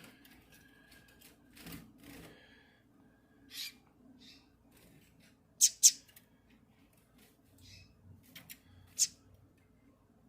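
Bird giving short, sharp, high-pitched calls: one about three and a half seconds in, a quick pair near six seconds, and another about nine seconds in.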